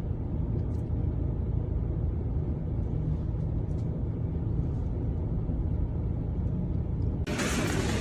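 A steady low rumble. About seven seconds in, it cuts suddenly to a louder, hissing noise.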